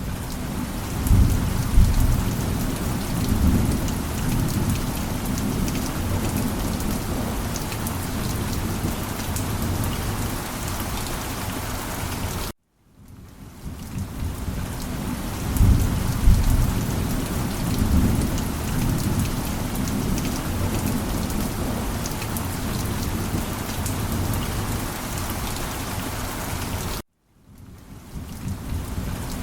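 Steady rain falling on a surface, with deep thunder rumbling a second or two in and again about halfway through. Twice the sound cuts off abruptly and fades back in: the same rainstorm recording looping.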